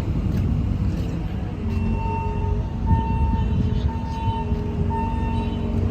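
Street traffic and engine rumble, with a vehicle's reversing alarm starting about two seconds in, beeping about once a second.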